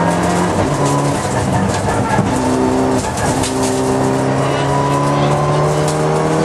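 Rally car engine at high revs, heard from inside the cockpit. Its pitch dips about two seconds in, then climbs steadily as the car accelerates.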